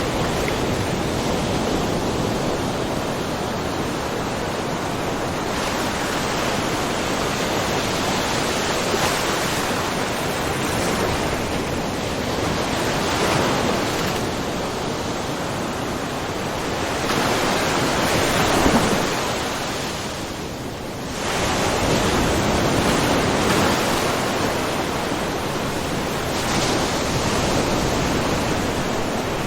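Small ocean waves lapping and splashing in a rocky cove, a steady wash of surf that swells and eases, with one fuller wave about two-thirds of the way through followed by a brief lull.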